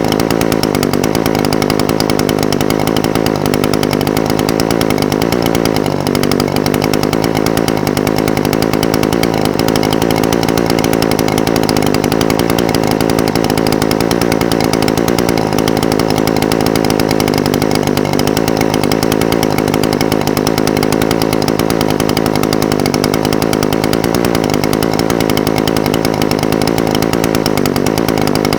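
Echo SRM-420TES brushcutter's two-stroke engine idling steadily, its pitch wavering slightly now and then.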